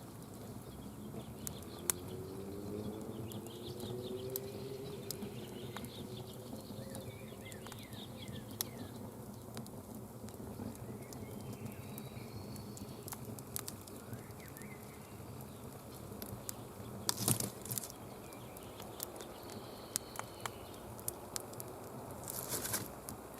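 Campfire crackling with scattered sharp pops and a couple of louder bursts about two-thirds of the way through and near the end, with birds chirping in the background.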